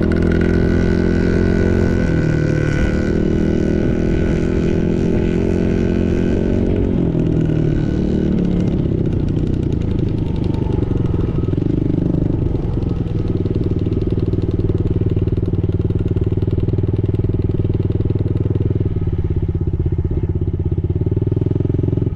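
A small dirt bike engine running as the bike rides around, its pitch shifting up and down several times in the first half, then holding steadier.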